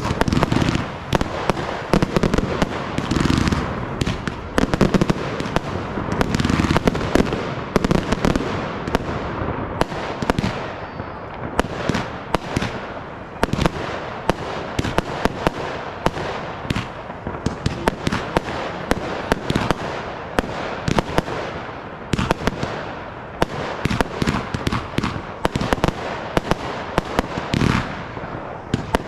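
Fireworks display at full pace: a dense, continuous run of sharp cracks and bangs from bursting shells, with deeper booms in the first several seconds.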